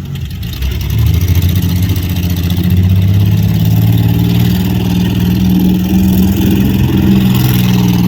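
Demolition derby car engines running and revving loudly, the engine note rising about a second in and then holding high.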